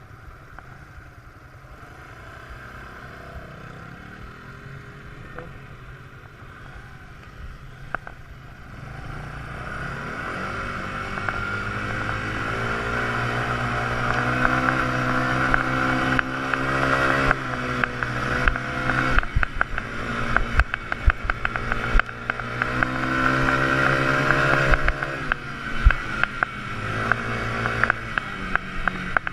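Quad bike engine, faint at first, then pulling away and speeding up about nine seconds in, its pitch rising and falling with the throttle. Scattered sharp knocks join it in the second half.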